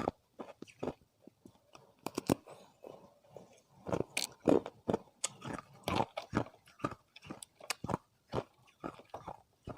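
Close-miked crunching of thin ice disks being bitten and chewed: irregular sharp cracks and crackles, busiest in the middle.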